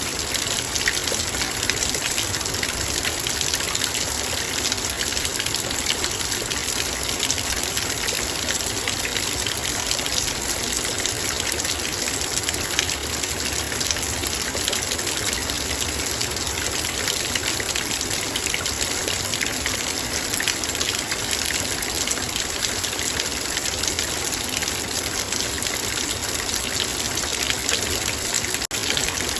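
Heavy rain falling steadily, its drops striking a metal bowl as dense fine ticks over a constant hiss. There is a brief dropout near the end.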